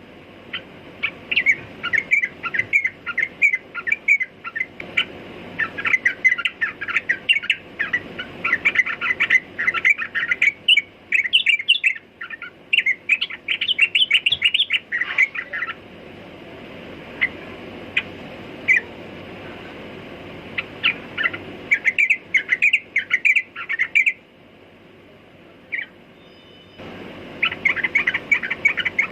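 Yellow-vented bulbul singing: quick runs of bubbly chirping notes in phrases, loud for the first half, then a few scattered notes and shorter bursts after pauses.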